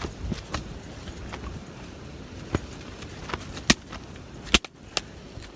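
Steady wind noise with irregular sharp knocks and clicks scattered through it, the loudest about three and a half and four and a half seconds in.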